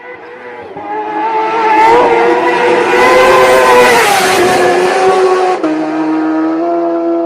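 Racing superbike engine at high revs passing by at speed, growing louder until it goes by and its pitch drops. Shortly before the end the sound cuts abruptly to a steadier engine drone.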